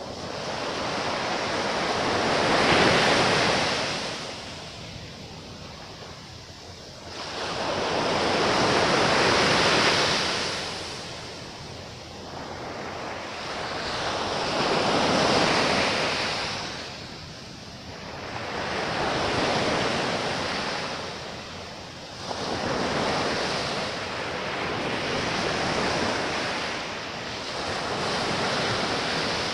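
Sea waves breaking on the shore, each a rush of surf that swells and fades, coming again every few seconds.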